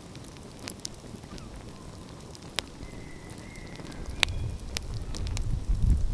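Outdoor wood fire crackling, with scattered sharp pops and snaps over a soft hiss. A low rumble builds from about four seconds in and is loudest near the end.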